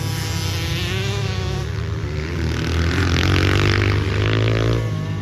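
Pit bike engines running on a motocross track. One bike accelerates with its pitch climbing, loudest about three seconds in, then backs off near the end.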